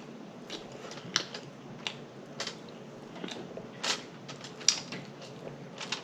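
A dozen or so short, sharp clicks and taps at an irregular pace, close to the microphone.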